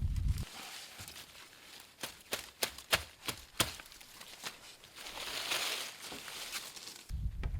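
Soft rustling with a quick run of about six sharp snaps between two and three and a half seconds in, then a brief airy rustle. A heavy low rumble starts again near the end.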